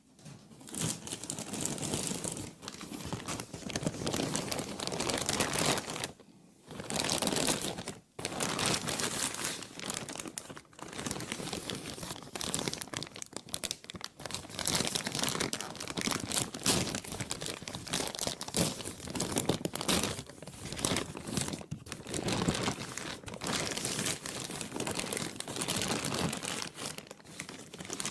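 Plastic being crumpled and crinkled by hand, a continuous dense crackling with short pauses about six and eight seconds in.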